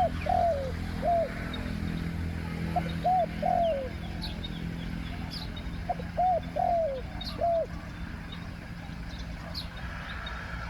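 Spotted dove cooing: three phrases of three or four short, bending coo notes in the first eight seconds, then a pause. Faint high chirps of small birds sound in the background.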